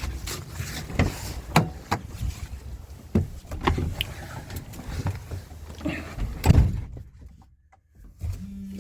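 Irregular knocks and clatter, the loudest a thump like a van door shutting about six and a half seconds in, then a brief hush and a vehicle engine starting to hum near the end.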